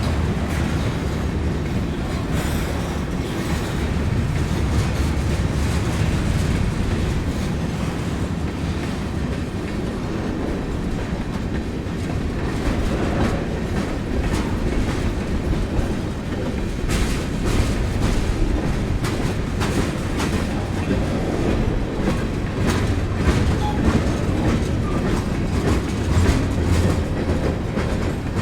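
Train rolling through a road grade crossing: a steady low rumble with the wheels clicking over the rail joints, the clicks coming thicker in the second half.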